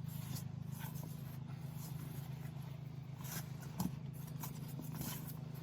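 Faux-leather seat cover rustling and scraping in short, scattered strokes as it is handled and pulled over a truck seat, over a steady low hum.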